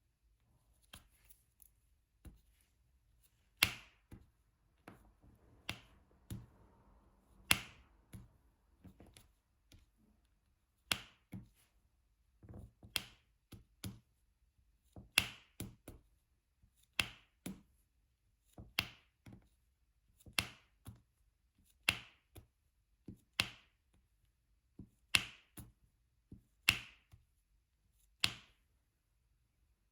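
Diamond painting drill pen tapping resin drills onto the adhesive canvas: a string of sharp taps, mostly a second or two apart, with fainter clicks in between.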